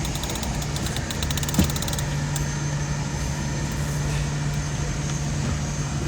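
Boat motor idling with a steady low hum. A rapid run of fine clicks sounds during the first two seconds, and a single knock about a second and a half in.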